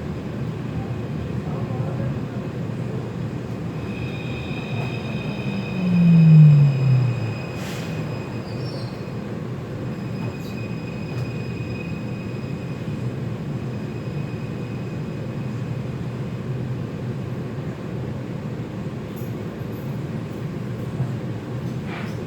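Taipei Metro C341 metro train heard from inside the car, with a steady low running rumble throughout. About six seconds in a loud tone falls in pitch, and thin high whining tones come in at about four seconds and fade out at about twelve seconds.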